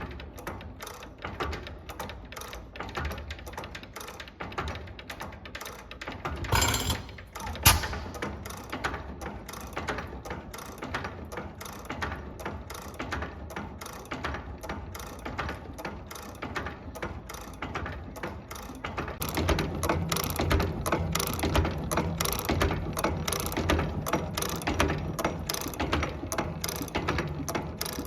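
1918 Star portable engine running, with a rapid, continuous clatter of mechanical clicks and knocks. A brief noisy burst and a sharp knock come about seven seconds in, and a heavier low beat builds about two-thirds of the way through.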